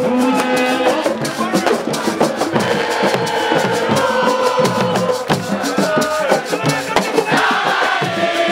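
A group of voices chanting and singing in unison over dense, fast drumming.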